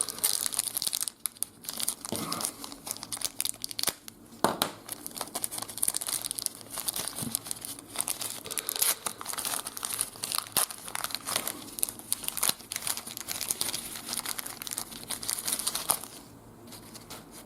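A trading card pack's wrapper being torn open and crumpled, with irregular crinkling and crackling that eases off near the end.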